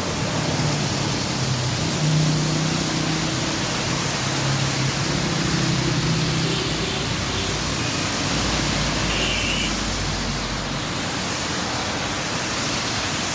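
Steady rain falling: an even, continuous hiss, with a faint low hum underneath through the first half.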